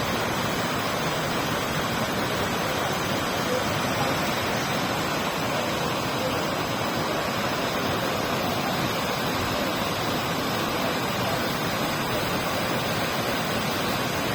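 Tall waterfall pouring: a steady, unbroken rush of falling water.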